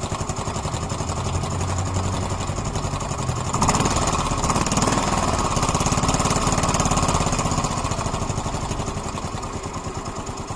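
Yamaha Mio M3 scooter's single-cylinder engine running with a rapid, even clatter, getting louder about three and a half seconds in and easing back near the end. A strange ticking noise that the owner suspects may be the valves.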